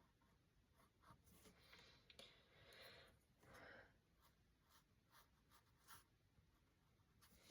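Faint strokes of a paintbrush on canvas: a few soft swishes in the first half, with scattered small ticks, all very quiet.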